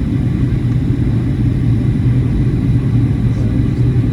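Steady low drone of an airliner cabin in flight: jet engine and airflow noise as a constant rumble, strongest in the deep bass, with no changes.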